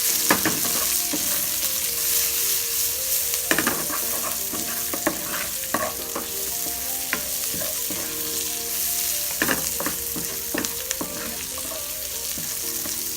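Garlic, ginger, onion and bay leaf sautéing in hot oil in a frying pan: a steady sizzle, with a wooden ladle stirring and knocking against the pan in irregular clicks and scrapes.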